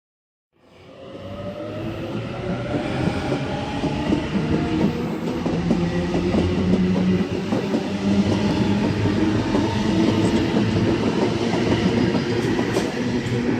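A train running past on the tracks, with wheel and rail noise that fades in over the first second or two and then holds steady.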